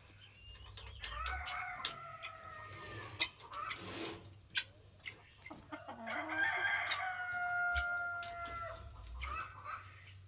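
Roosters crowing: one long crow about a second in and a second, longer crow around six seconds in, with a few short clicks between.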